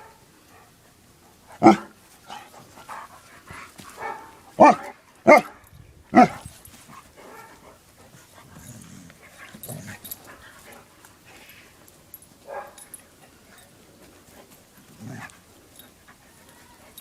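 A dog barking: four loud, sharp barks spread over a few seconds, with fainter sounds after them.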